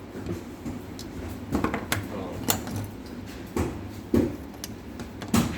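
A series of about six separate knocks and clinks, like metal parts or tools being handled and set down, with the loudest near the end.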